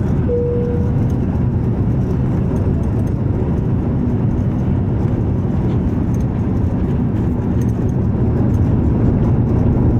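Airbus A340-300's four CFM56 jet engines at takeoff thrust, a steady low rumble. A brief steady tone sounds just after the start.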